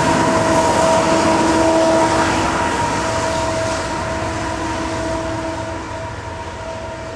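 Double-stack intermodal freight train rolling on the rails, a steady rumble with a few steady ringing tones riding on it, slowly getting quieter.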